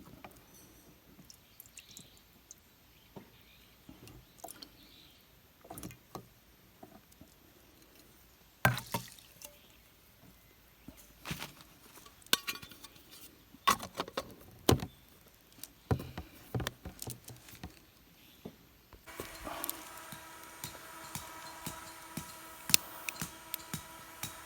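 Scattered clinks, taps and knocks of small cooking gear being handled. About three-quarters of the way in, a steady hum with a faint tone joins in under the knocks.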